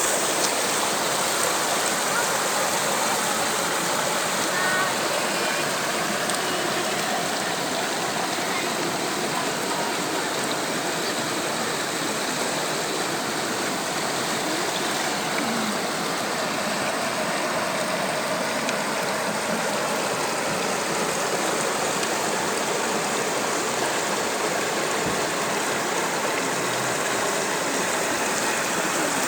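Rushing water of a mountain stream, a steady unbroken noise.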